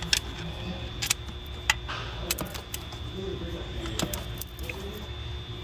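Irregular metallic clicks and clinks of hand tools, sockets and ratchet, working bolts on an engine, over a steady low shop hum.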